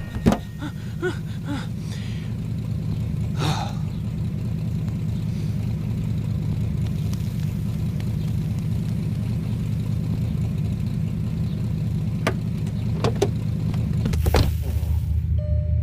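Cartoon car engine running with a steady low rumble, with a few light clicks and knocks over it; after a knock near the end the engine note settles lower.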